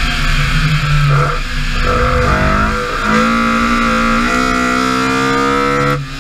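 BMW E30 M3's S14 four-cylinder engine under hard acceleration, its revs climbing steadily through a gear and dropping sharply at upshifts about three seconds in and again near the end.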